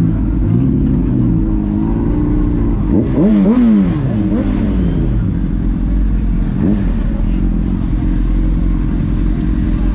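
Car engine revving hard over a steady low exhaust rumble, its pitch sweeping up and down again and again, with the sharpest revs about three to four and a half seconds in.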